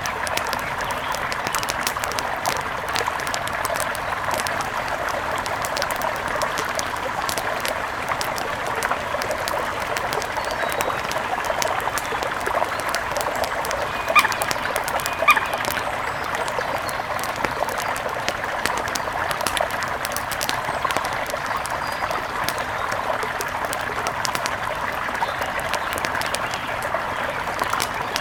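Steady rush of a mountain river, with faint scattered crackles throughout and two short sharp sounds about halfway through.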